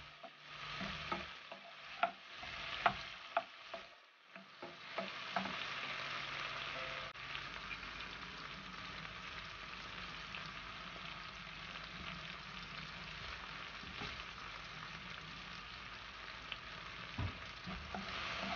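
Onions and tomatoes sizzling in oil in a stone-coated pan while a wooden spatula stirs them, with sharp knocks of the spatula against the pan in the first few seconds. From about five seconds in the sizzle runs on steadily, with only the occasional tap.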